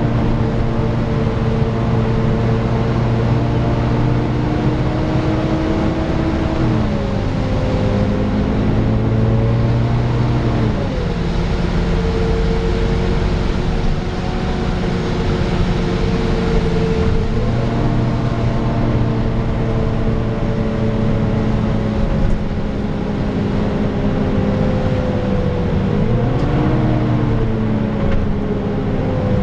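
Volvo B9TL double-decker bus's six-cylinder diesel engine heard on board under way, its pitch dropping and climbing again several times as the automatic gearbox changes gear. A steady whooshing hiss from the engine cooling fan, the bus's 'random hoover', runs underneath.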